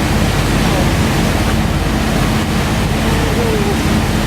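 Steady rush of wind and water over a constant low engine hum from the boat.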